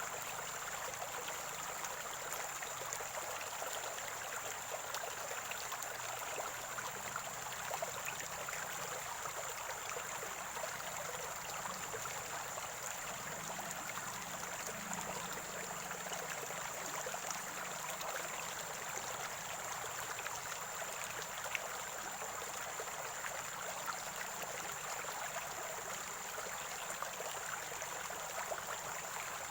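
Water from a natural spring flowing and gurgling steadily in a small stream, with a thin, steady high-pitched tone above it.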